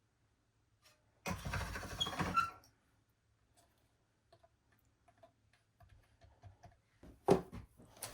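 Hand-cranked pasta machine rolling a sheet of polymer clay through its rollers for about a second, followed by scattered small clicks and a sharp knock near the end.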